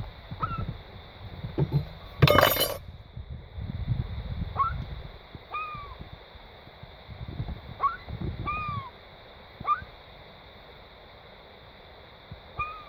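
Gulls giving short, curved calls again and again, about ten in all, with a brief loud rattle a couple of seconds in and low rumbles in between.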